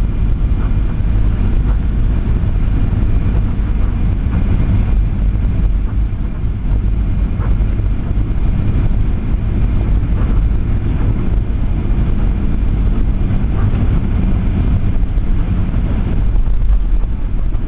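Steady low rumble of engines and rushing air inside the cabin of a Boeing 737-800 as it comes in to land, growing a little louder near the end.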